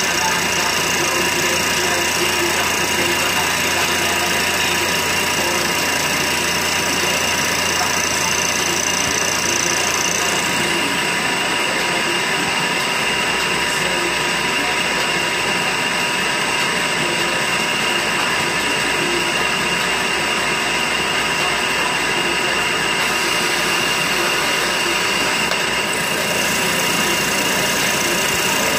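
CNC machine tool running steadily, a continuous mechanical noise with a high whine, its low hum changing about eleven seconds in.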